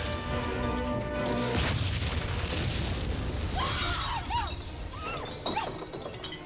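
Film score music mixed with battle sound effects: crashing and shattering. About halfway through come a few short, high rising-and-falling tones.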